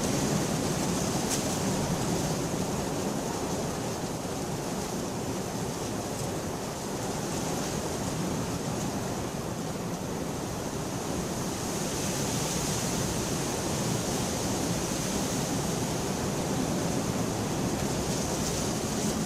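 Steady rain falling, a dense even hiss with no thunder.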